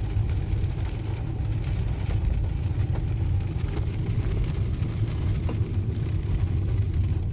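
Steady engine and road noise of a moving car, heard from inside the cabin: a continuous low rumble.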